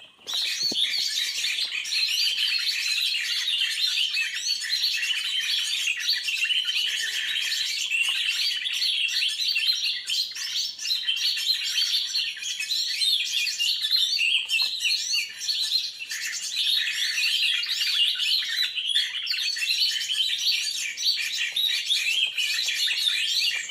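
Dense, continuous chatter of many small birds chirping and twittering over one another, with short high calls crowding together without a break.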